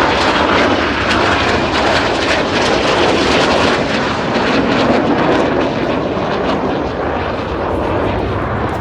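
Jet noise from Red Arrows BAE Hawk T1 trainers flying their display: a loud, steady rushing roar that eases off a little toward the end.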